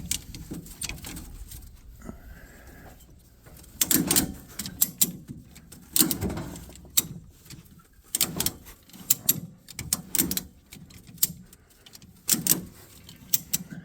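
A heavy old wood stove being winched into a truck bed with a bumper crane hoist: a run of irregular metal clunks and knocks with scraping in between, most of them in the second half.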